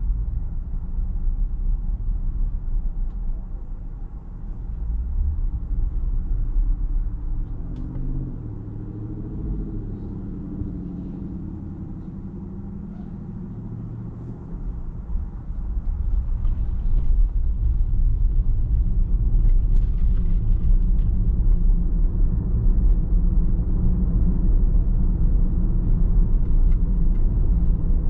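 A car driving on the road: a steady low rumble of road and engine noise. It eases for a few seconds near the middle, then grows louder again from about halfway on.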